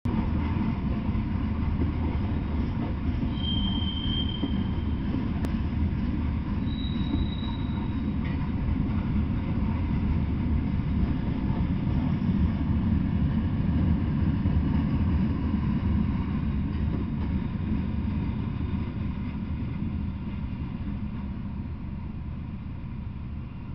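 Freight train of tank cars, boxcars and covered hoppers rolling past, its wheels on the rails making a steady low rumble. Two brief high-pitched wheel squeals come in the first eight seconds, and the rumble fades as the last car passes near the end.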